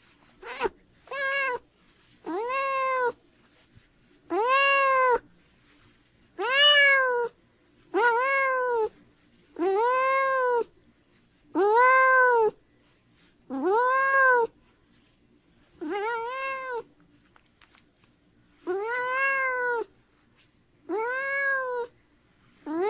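Domestic cat meowing over and over: about a dozen drawn-out meows, each rising then falling in pitch, one every second and a half to two seconds, with two short ones at the start.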